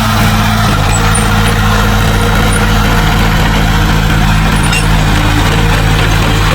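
Diesel engine of heavy earthmoving machinery running steadily at an even, low pitch.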